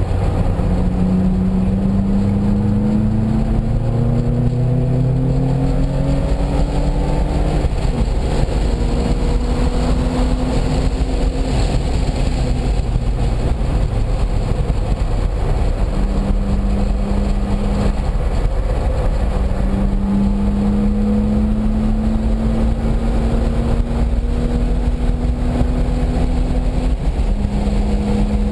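Car engine heard from inside the cabin while lapping a circuit. The revs climb steadily, fall suddenly at an upshift about eight seconds in, then climb again, with another drop near the end. A constant low road and wind rumble runs underneath.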